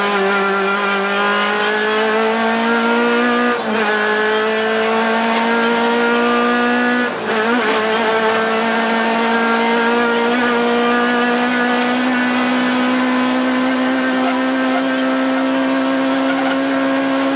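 Rally car engine heard from inside the cockpit under hard acceleration, its pitch climbing steadily. There are two brief breaks, about three and a half and seven seconds in, where the driver changes gear.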